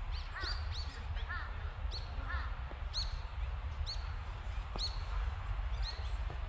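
Small birds chirping: short, high, arched notes about once a second, with a few lower chirps in the first half, over a low steady rumble.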